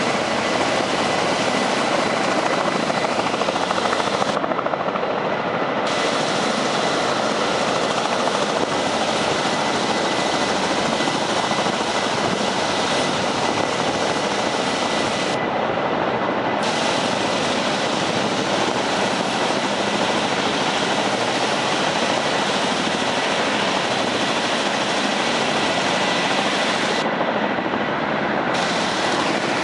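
Firefighting helicopter running close by: a loud, steady rotor and engine noise that does not change.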